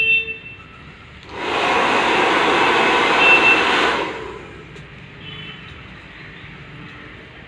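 Hand-held hair dryer blowing in one short burst of about two and a half seconds, starting a little over a second in and dying away at about four seconds.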